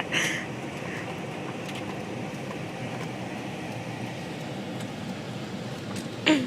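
Steady road and engine noise inside a moving car's cabin. Near the end there is a brief sound that falls sharply in pitch.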